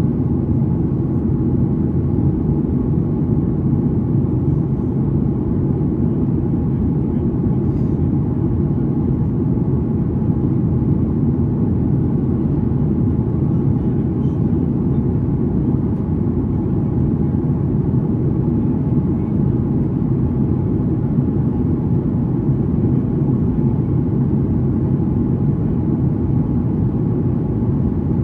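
Steady cabin noise of a Boeing 737-800 in flight: a constant rumble of engines and rushing air, heaviest in the low range, with a faint steady hum above it.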